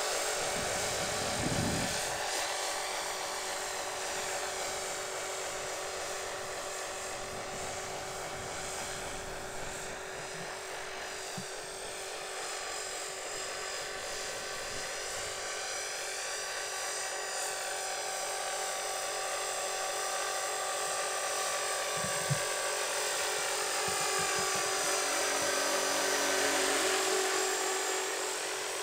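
Electric Align 450-size RC helicopter in flight: a steady high whine from its motor and rotors that shifts slowly in tone as it moves around.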